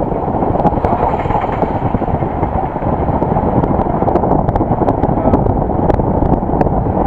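Steady rumble of road and wind noise from a moving vehicle, picked up by an action camera's microphone, with a few faint ticks scattered through it.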